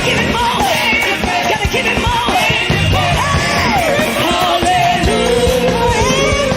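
Live gospel music: female voices singing and shouting in sweeping melismatic runs, settling into a long held note about five seconds in, over a loud full band with drums.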